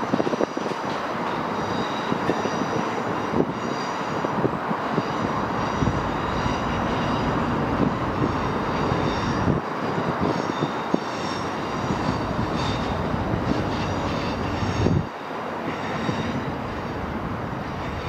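Electric multiple unit running away over station pointwork: a steady rumble and rush with short spells of high-pitched wheel squeal and occasional clicks. It drops a little near the end.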